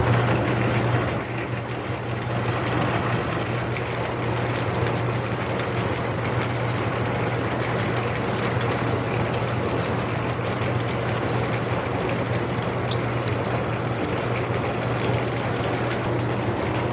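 Small metal lathe taking a heavy roughing cut, the motor's steady hum under a continuous cutting noise. It starts up abruptly and then runs steadily.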